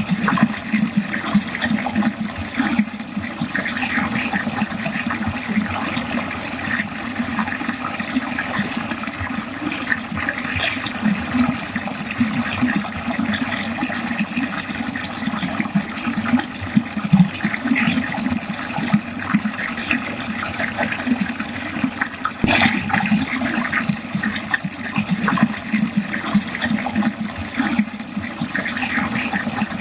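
Water running steadily down a drain, with a continuous gurgling churn and small splashes. A single short click about 22 seconds in.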